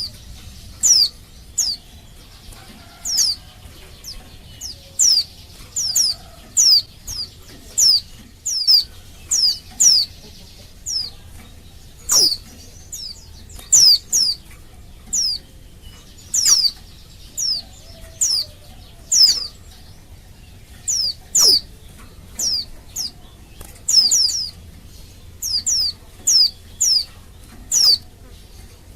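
Female pleci (white-eye) giving its call to males: single short, high notes that each slide quickly downward, repeated about once a second at uneven intervals.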